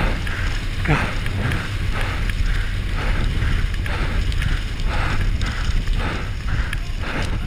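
Wind buffeting the microphone over the rumble and rattle of a downhill mountain bike at speed, with the rider's hard breathing coming in a steady rhythm about one and a half times a second. A short spoken word comes about a second in.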